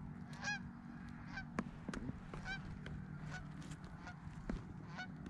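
Geese honking: a string of short honks scattered through, with a faint steady low hum underneath.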